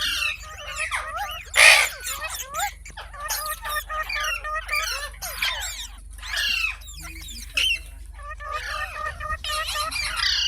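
Parrot chattering: rapid chirps and whistling glides, with one loud harsh squawk nearly two seconds in.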